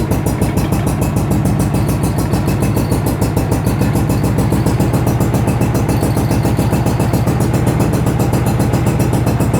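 Yard-Man riding lawn tractor engine idling steadily with an even, fast pulse, shortly after a cold start. The engine is still cold and warming up.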